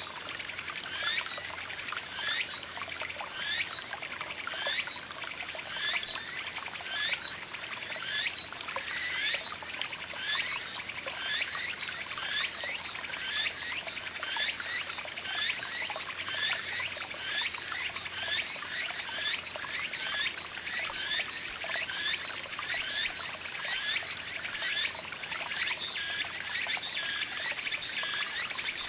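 A small garden mountain stream trickling and splashing steadily. Over it, a short rising chirp repeats about once a second, with a steady high whine behind.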